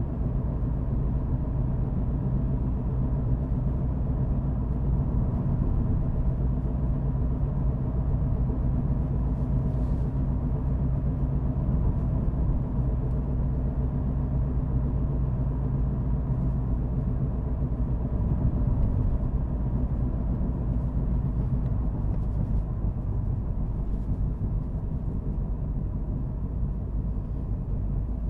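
A car driving at a steady pace: a constant low drone of engine and road rumble, with the engine note shifting slightly about two-thirds of the way in.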